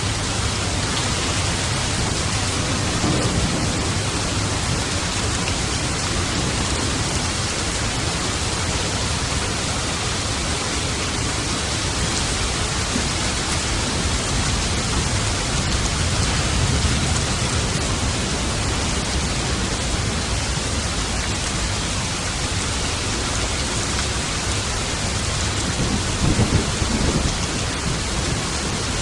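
Steady heavy rain falling in an even hiss, with low rolling thunder rumbling in the background. The thunder swells a few times, most strongly near the end.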